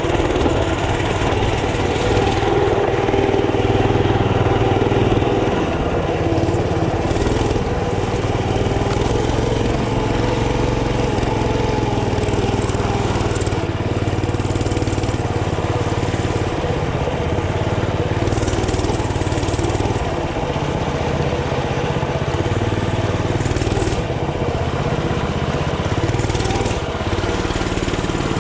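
Mini bike's small engine running continuously, its pitch rising and falling gently with the throttle.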